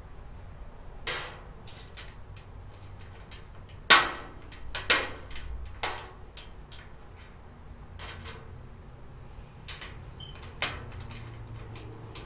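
Irregular knocks and clicks, about seven in all and the loudest about four seconds in, from cart parts and a small hand tool being handled while the storage cart is put together.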